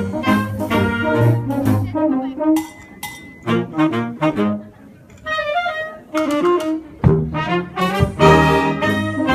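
Upbeat brass music with trumpet and trombone, dropping to a softer passage for a few seconds in the middle before the full band returns.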